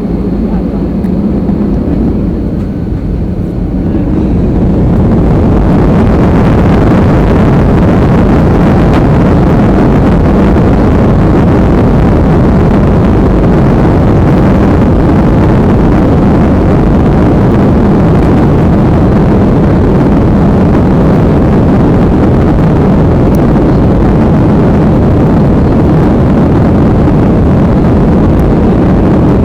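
Jet airliner engines spooling up to takeoff thrust about four seconds in, then a loud, steady roar through the takeoff run.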